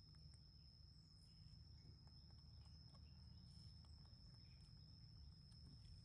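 Near silence: a low steady rumble and a thin, steady high-pitched whine, with a few faint scattered clicks.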